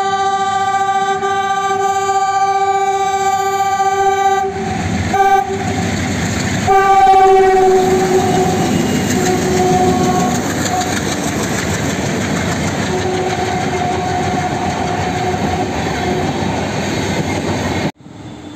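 Indian Railways diesel locomotive horn sounded in one long blast of about four and a half seconds, then in shorter blasts, the later ones dipping slightly in pitch. Meanwhile a multi-locomotive diesel consist and its coaches rush past in a steady loud roar of engines and wheels on rails. The sound cuts off suddenly near the end.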